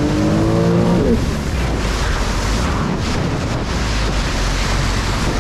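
Jet ski engine revving up, its pitch rising for about the first second, then giving way to heavy wind noise on the microphone and rushing water as the craft speeds along.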